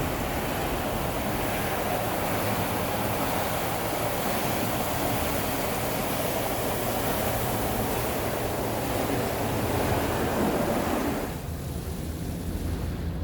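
Car wash jets spraying water against a van's body, a loud, steady hiss and drumming that cuts off about eleven seconds in, leaving a low hum.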